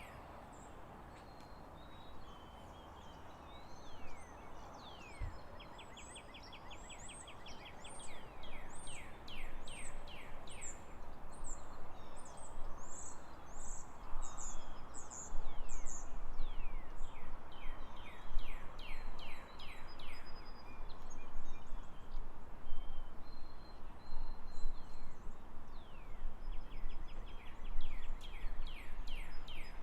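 Small birds chirping and trilling: many quick downward-sweeping chirps and short rapid trills over a steady noisy background. The calls grow louder and busier from about a third of the way in.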